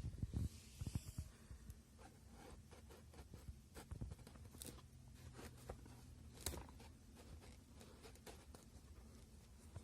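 Faint scattered clicks and scraping handling noises, busiest in the first second or so, over a steady low hum.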